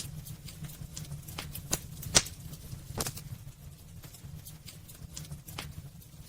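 Wood fire burning in a fireplace: irregular sharp crackles and pops from the burning logs, the loudest about two seconds in, over a steady low rumble of the flames.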